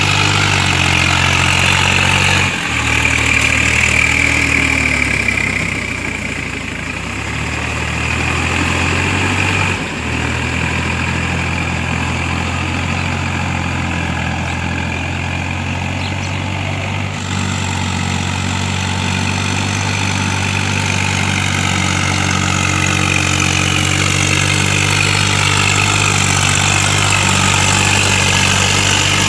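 Tractor diesel engine running steadily, its note jumping to a different pitch a few times.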